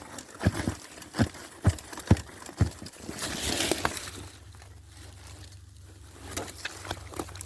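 Footsteps walking at about two steps a second, each a dull thump, stopping about three seconds in, followed by a brief soft rustle.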